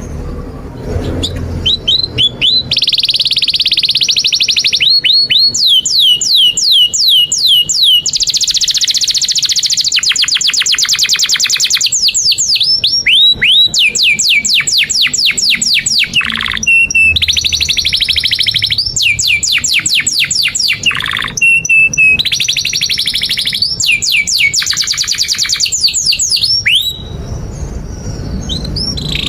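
Canary singing a long, high-pitched song: fast trills and runs of quick falling whistles, changing phrase every second or two. The song breaks off near the end.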